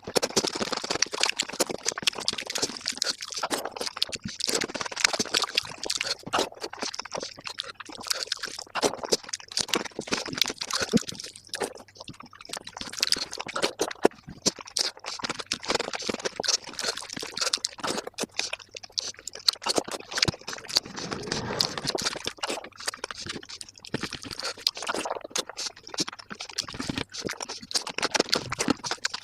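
Close-miked eating sounds played back at about five times speed: rapid wet chewing and mouth smacking of palak paneer, a dense, unbroken run of clicks and squelches.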